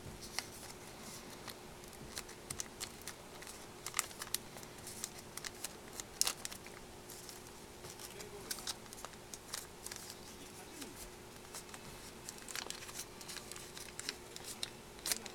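Origami paper being handled and folded: irregular crinkles, rustles and sharp creasing clicks, over a faint steady hum.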